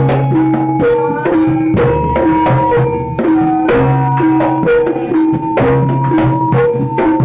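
Live jaranan accompaniment music: hand drums keep a fast, steady rhythm while struck pitched instruments play a melody that steps between held notes.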